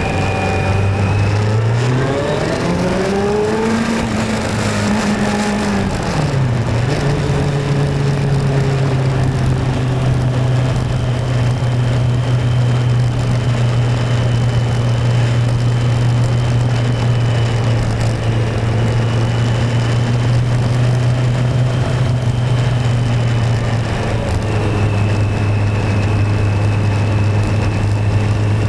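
Touring motorcycle engine running on a test ride after a repair: it revs up about two seconds in, eases off around six seconds, then holds a steady cruising pitch, with a small drop near the end.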